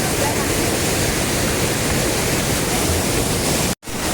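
Waterfall rushing steadily, a dense, even roar of heavily falling water. It cuts out abruptly for an instant near the end, then resumes.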